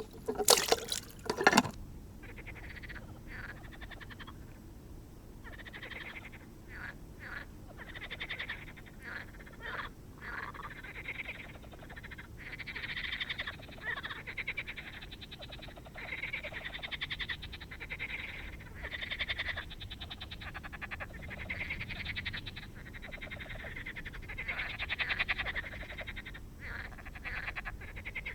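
A few loud, sharp noises in the first two seconds, then a chorus of frogs croaking in rapid pulsed trills that come and go.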